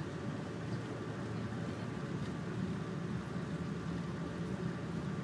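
Steady low rumble of a moving passenger train as heard inside the carriage, with a faint steady hum running through it.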